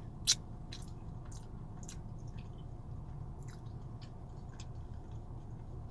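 A person chewing a mouthful of burrito close to the microphone, with wet mouth clicks and smacks about every half second and one sharp louder click near the start.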